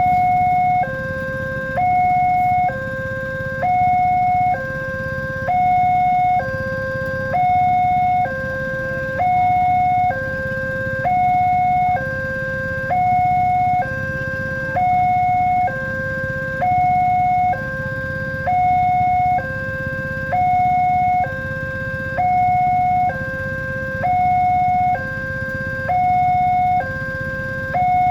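Railway level-crossing warning alarm sounding its two-tone electronic signal: a higher and a lower tone alternate evenly, each held just under a second, over a steady low rumble.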